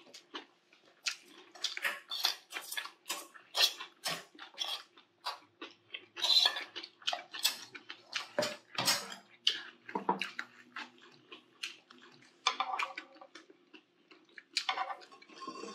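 Close-miked chewing of a mouthful of food, with wet smacking and many short irregular clicks. Near the end, chopsticks clink and scrape in a frying pan.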